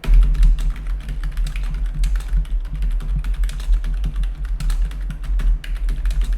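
Rapid, continuous typing on a computer keyboard, with a steady low hum underneath.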